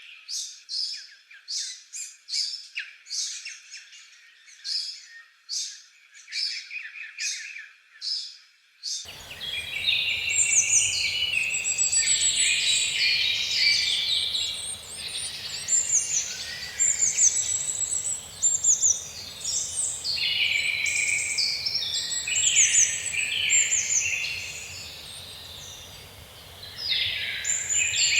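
Songbirds chirping: first a single bird repeating short chirps about twice a second, then an abrupt switch about nine seconds in to a dense chorus of many birds calling over each other, which thins out briefly shortly before the end.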